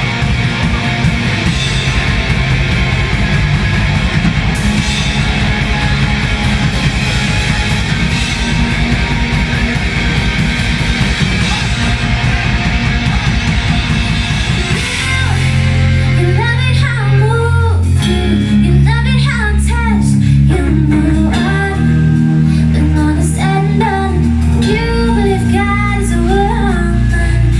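Live rock band playing a cover song with electric guitar, bass and drums: a dense, full-band passage, then about halfway through it drops to held bass notes under guitar, and a singing voice comes in.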